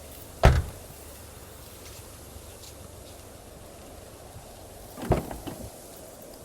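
Two heavy thuds, one about half a second in and another near the end followed by a few lighter knocks, over a steady background noise.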